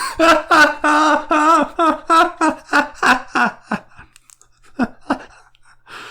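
A person laughing hard: a quick run of 'ha' pulses, about four a second, that fades after about four seconds, followed by two more short laughs.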